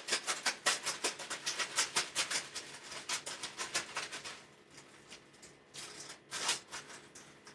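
Raw chicken piece being tossed and coated in a seasoned flour and cornstarch mix: a fast, even pattering of about eight or nine strokes a second that stops about four and a half seconds in, followed by a few scattered soft pats.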